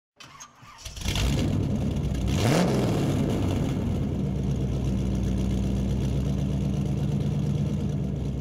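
A car engine starting: brief cranking, catching about a second in, a quick rev, then settling into a steady idle.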